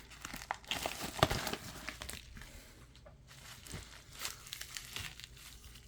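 Packing material being handled: light crinkling and rustling with scattered small clicks and taps.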